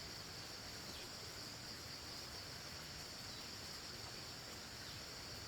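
Faint, steady high-pitched chorus of insects such as crickets, with a few faint downward-sliding chirps.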